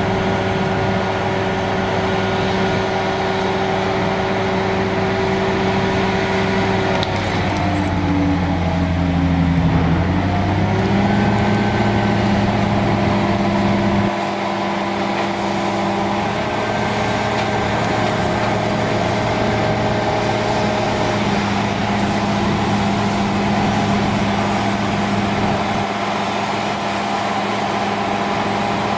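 A heavy machine's engine running steadily; about seven seconds in its pitch sags, then climbs back a few seconds later and holds steady.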